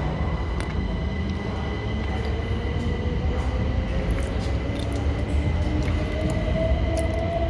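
Electric multiple-unit train moving at the platform: a low rumble with a traction-motor whine that rises slowly and steadily in pitch, and a steady high tone above it.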